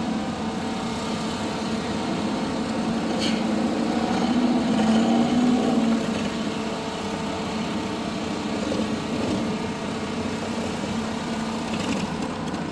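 Car engine running at low revs, growing louder for a couple of seconds about four seconds in and then easing off again.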